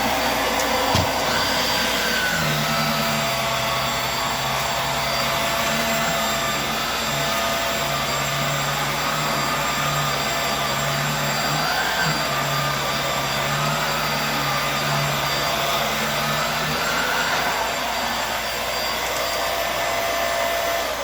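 Hoover Air Steerable WindTunnel upright vacuum cleaner running on a rug, a steady motor whine and airflow rush whose pitch wavers slightly.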